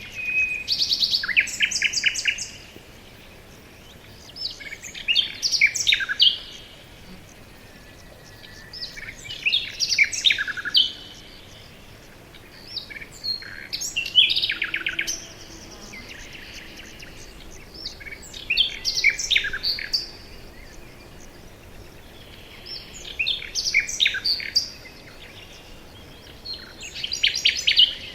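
A songbird in a forest singing a short, rapid, trilled phrase again and again, about every four to five seconds, over a faint steady hiss of background noise.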